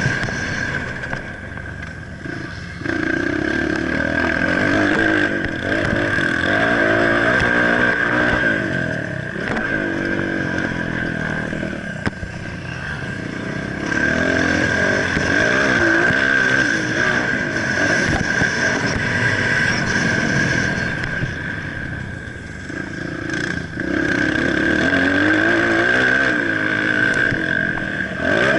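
Motocross bike engine revving up and dropping back again and again, its pitch rising and falling as the throttle is worked.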